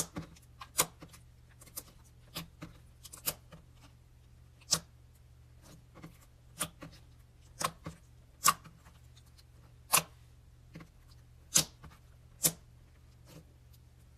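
Slime being squeezed and poked, giving sharp, irregular clicks and pops, a few each second, over a low steady hum.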